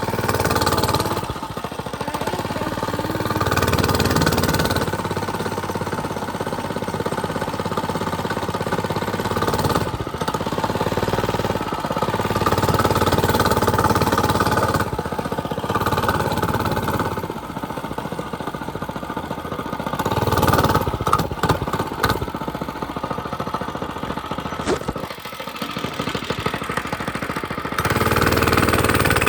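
Mini bike's small engine running, its speed rising and falling as it is ridden, with a few sharp knocks about twenty seconds in.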